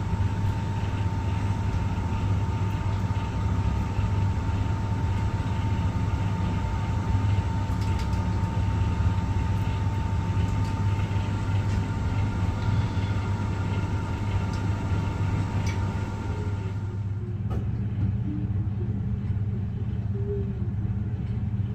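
Steady low machine rumble, with a thin high whine over it that cuts off about seventeen seconds in.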